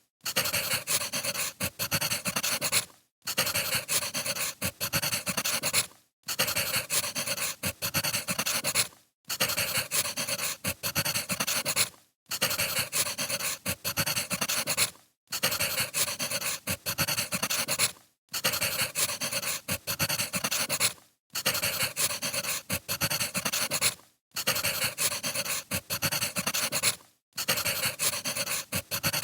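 Crackling wood fire: dense small pops and crackles that break off briefly about every three seconds and start again, as in a looped recording.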